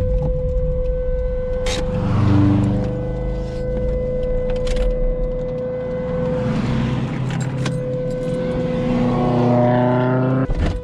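Toyota MR2's engine heard from inside the cabin while lapping a race track, with road and wind noise; the revs climb near the end. A steady high tone runs underneath, and there are a few sharp clicks.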